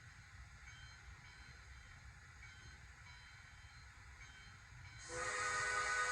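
Model steam locomotive's sound-system whistle (Bachmann Spectrum K4) blowing a loud chime blast of several steady tones, starting about five seconds in. Before it there is only a faint steady hiss.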